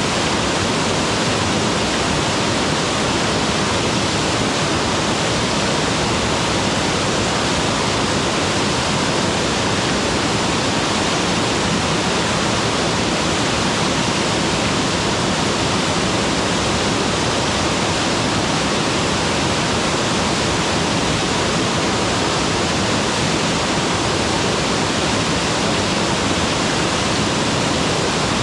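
Mountain waterfall pouring steadily, a dense, even rush of falling water with no breaks or changes.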